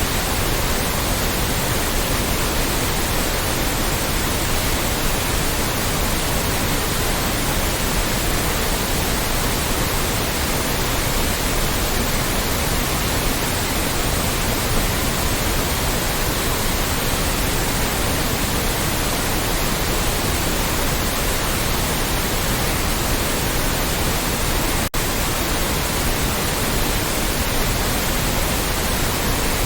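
Loud, steady synthetic white noise, an even hiss across the whole range from deep to very high, with one split-second dropout about 25 seconds in.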